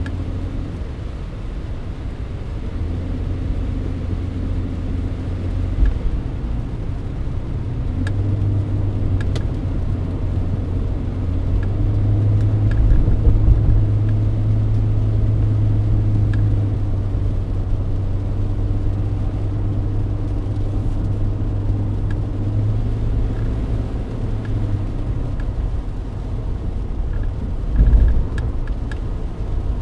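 Cabin sound of a Mercedes-Benz W124 on the move: a steady engine drone over tyre and road noise, getting louder about twelve seconds in. A short thump near the end.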